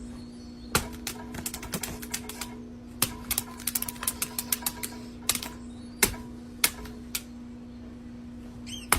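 Sharp, irregular clicks and taps, some coming in quick runs, over a steady low hum.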